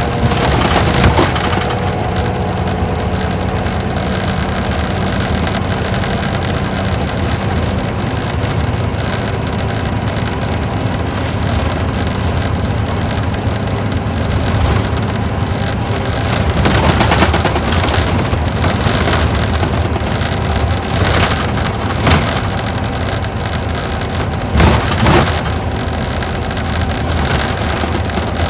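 Interior running sound of an Isuzu Gala coach under way: its V-type diesel engine and road noise, with a few sharp knocks and rattles at irregular moments.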